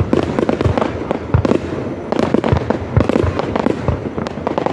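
A fireworks display: aerial shells bursting in a dense, irregular run of booms and crackles, several a second.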